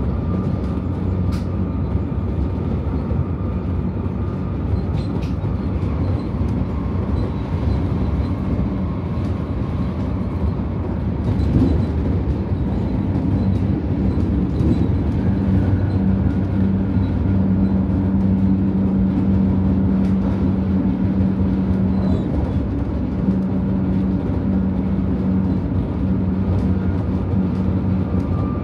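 Electric commuter train running along the line, heard from on board: a steady rumble of wheels on rail with a low hum that grows louder from about halfway through.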